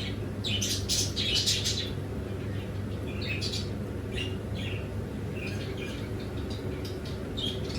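Small birds chirping, a quick flurry of chirps in the first two seconds and then scattered single chirps, over a steady low hum.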